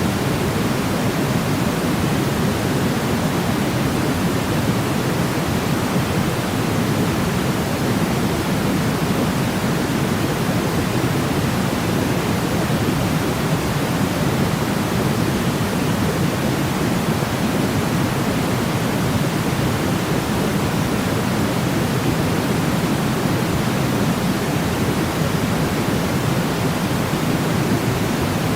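Steady white-noise sleep sound: an even, deep rushing hiss with no change or break, its weight in the low range.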